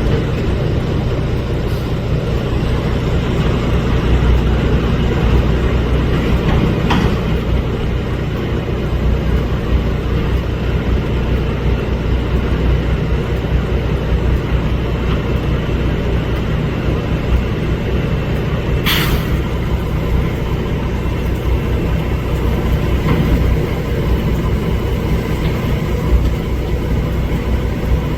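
Garbage truck's engine running steadily, with a short sharp noise about two-thirds of the way through.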